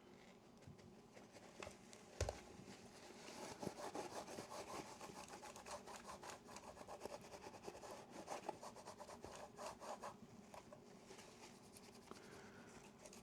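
The metal body of a Yashica Electro 35 GSN camera is being wiped clean by hand, with quick back-and-forth rubbing strokes. A single knock comes about two seconds in, and the rubbing dies away near the end.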